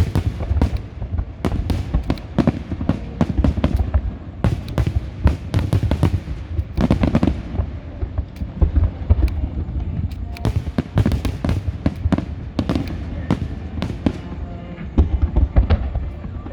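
Fireworks display: a dense, continuous barrage of bangs and crackles over a deep rumble.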